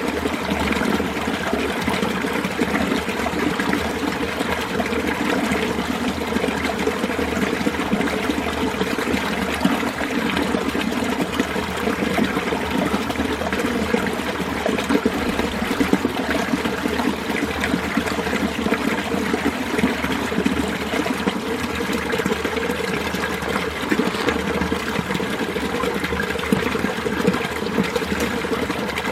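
Mountain valley stream in winter, water running and splashing steadily over rocks in a continuous rush.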